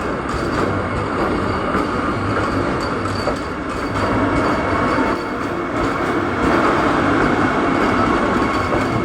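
Vande Bharat Express trainset running along the track: a steady, loud rumble of wheels on rail with a thin, steady squeal above it.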